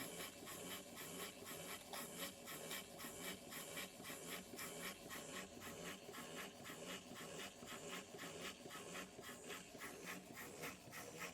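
Small Retrol live-steam beam engine running steadily, heard as a faint, quick, even beat.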